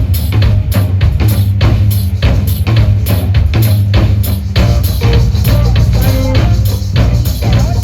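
Live blues band playing the instrumental intro of a song: a steady drum-kit beat with kick and snare over bass, with melody lines coming in about two-thirds of the way through.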